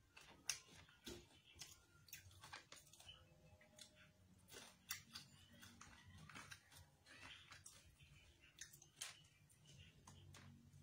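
Quiet, close chewing and crunching of crispy fried chicken skin, with irregular sharp crackles throughout.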